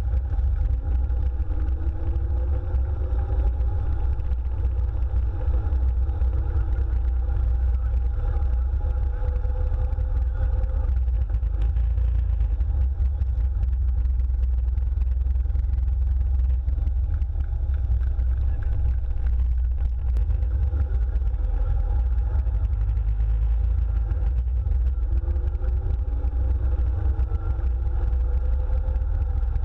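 The 1907 Diatto-Clément 25/35HP's engine and drivetrain running as the car drives along, heard from on board, under a heavy low rumble. A whine rises in pitch about a second in and again near the end as the car picks up speed.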